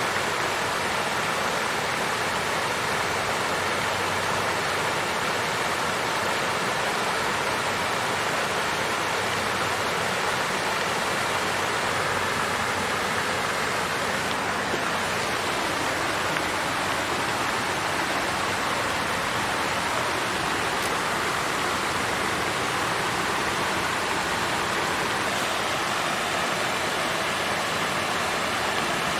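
Water fountain splashing and flowing, a steady, even rush of water with no breaks.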